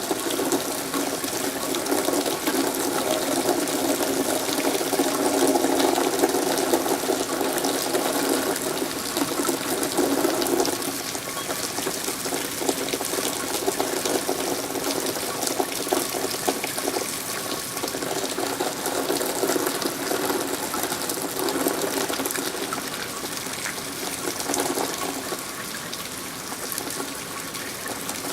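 Rainwater running and gushing steadily, easing slightly about ten seconds in.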